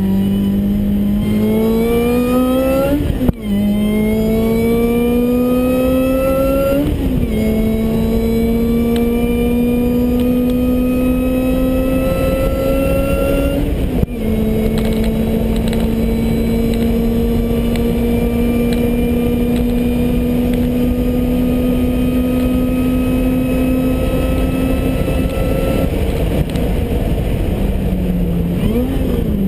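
Lotus Elise four-cylinder engine heard from inside the cabin, pulling hard under full throttle. The pitch climbs and falls back at three upshifts, then rises slowly through a long top-gear run. Near the end the driver lifts off and a quick rev blip marks a downshift for braking.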